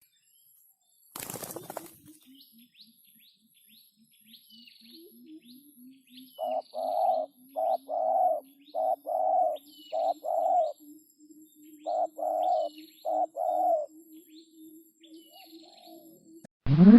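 Spotted doves cooing: phrases of one short and one longer coo repeat many times, over a steady low pulsing call and faint high chirps from small birds. A brief rustling noise comes about a second in.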